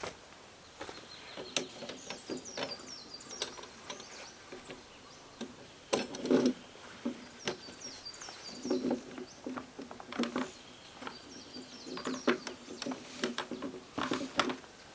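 Small birds chirping in short, quick, repeated high calls, with irregular knocks and clatter close by. The loudest knock comes about six seconds in.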